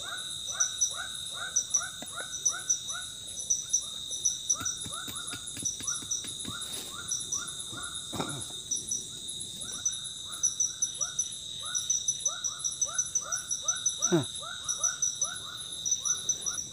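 Forest insects buzzing steadily with a high pulsing chirp, while an animal repeats a short falling call about three times a second, pausing briefly midway. A few light clicks come in the middle, and two longer downward-sliding calls come later.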